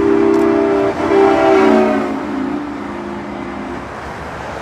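Truck air horn sounding a chord of several steady notes, its pitch dropping about two seconds in as the truck passes and moves away, then stopping about four seconds in. Steady motorway traffic noise underneath.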